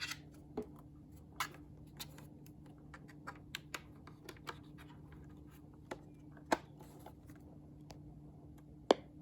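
Cordless phone handset keys being pressed: scattered, irregular small plastic clicks, with two sharper ones about six and a half and nine seconds in, over a faint steady hum.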